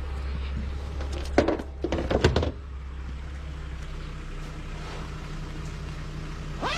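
A steady low hum with a short run of loud knocks and clatter between about one and a half and two and a half seconds in.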